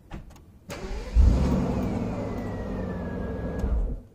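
Mercedes SL600's 6-litre V12 engine started on a supercapacitor: a moment of cranking, then it catches with a flare and runs steadily, with a faint whine that slowly falls in pitch, before cutting off near the end.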